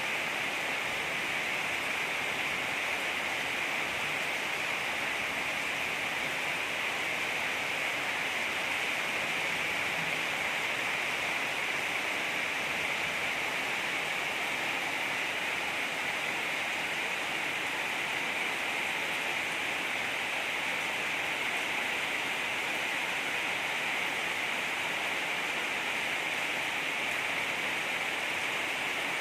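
Heavy rain falling steadily, an even, unbroken hiss with no single drops or other events standing out.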